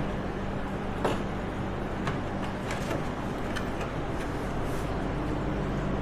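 Light clicks and knocks of tools and metal parts being handled, scattered irregularly over a steady low hum.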